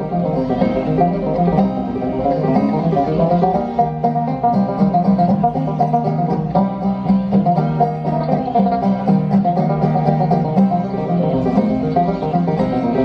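Two banjos playing an instrumental passage together, a fast run of plucked notes without singing.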